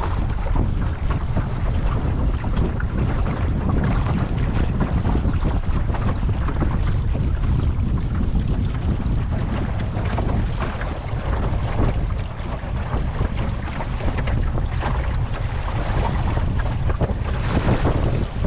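Wind buffeting the microphone in a steady low rumble, with water rushing and splashing along the hull of a wooden sailboat under sail.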